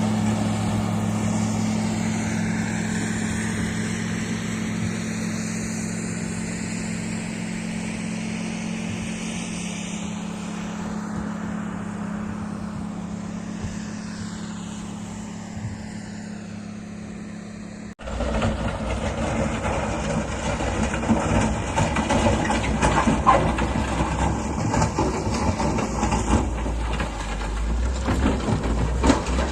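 Heavy diesel machinery engine running steadily. About eighteen seconds in it cuts abruptly to a louder, rougher machine sound with rattling and clatter.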